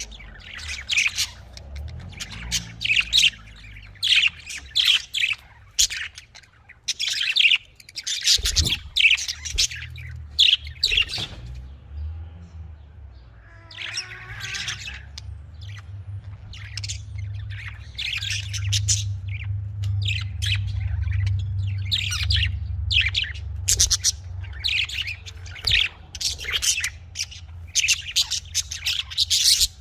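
Budgerigars chirping and squawking in quick, irregular calls, with a steady low hum underneath.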